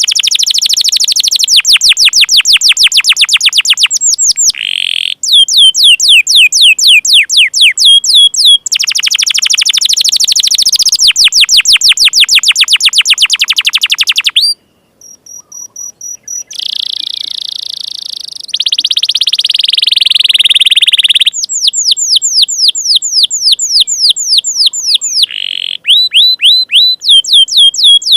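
Canary singing loud, rapid trills of repeated down-slurred notes, phrase after phrase with short breaks between, and a smoother, rolling phrase in the middle.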